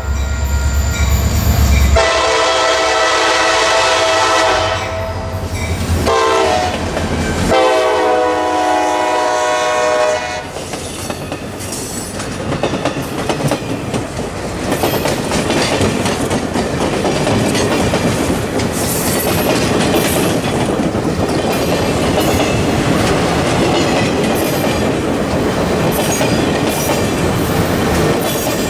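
Diesel locomotive air horn blowing a series of blasts, the last a short one and then a long one, the grade-crossing signal. Then the passenger train runs past with a steady rumble and the clickety-clack of its wheels over the rail joints.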